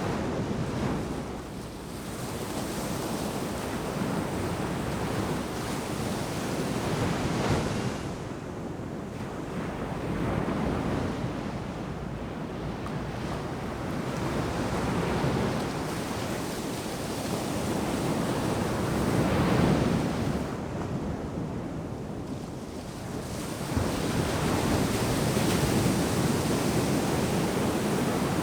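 Ocean surf breaking on a sandy beach, the wash swelling and falling back every few seconds, with some wind buffeting the microphone.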